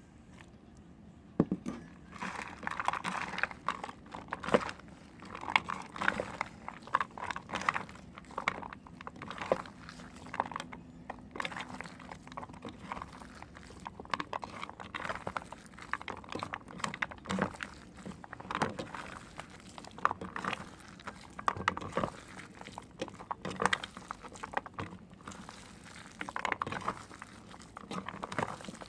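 Bar soap being cut with a knife: irregular crisp crunches and scrapes as the blade goes through the dry soap, starting about a second and a half in.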